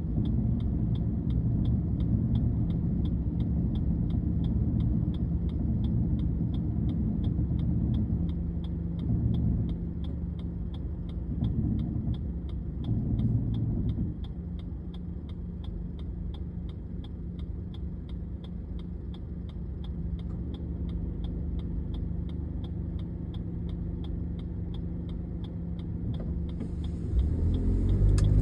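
Suzuki Wagon R Smile's three-cylinder engine idling, heard from inside the cabin as a steady low hum, with the turn-signal indicator ticking evenly throughout. Passing traffic rumbles by in the first half, and near the end the engine note rises as the car pulls away.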